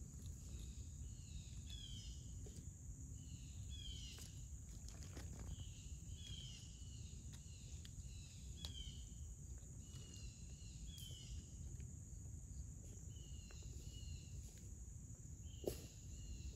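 Faint woodland ambience: a bird calling over and over with short falling chirps about once a second, over a steady high hiss and a low rumble. A single sharp click near the end.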